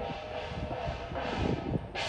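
Wind buffeting the microphone with a low rumble, under faint background music.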